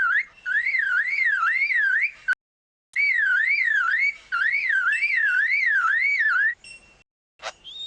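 Superb lyrebird mimicking a car alarm: a loud whistled tone swinging up and down about two and a half times a second, with a short break about two seconds in. Near the end it switches to a quick rising whoop that levels off into a steady high tone.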